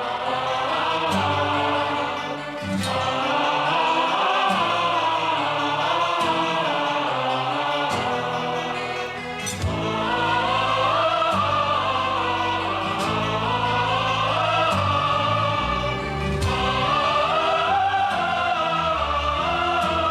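A choir singing a melody over an orchestral accompaniment: the cartoon series' opening theme song. The phrases break off briefly twice, a couple of seconds in and about halfway through.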